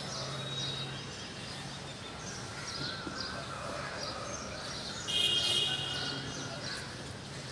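Wild birds chirping and calling, many short overlapping chirps, with a louder, harsher call about five seconds in. A faint steady low hum sits underneath.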